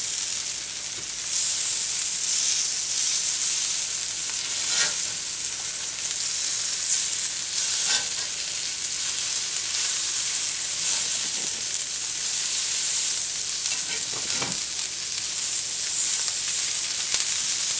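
Masala-coated prawns sizzling steadily in hot oil on a cast-iron pan, with four short scrapes or knocks of a metal slotted spatula as the prawns are turned over.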